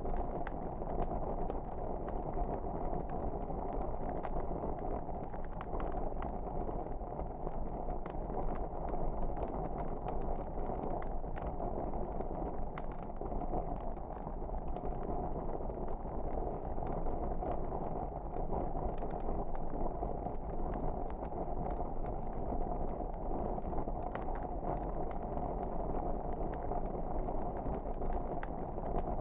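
Wood fire burning in a fireplace: a steady low rumble of flames with frequent small, irregular crackles and pops from the logs.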